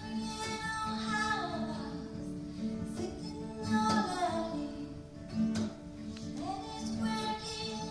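Acoustic band music: steady acoustic guitar under a lead melody whose phrases slide downward between notes, three times.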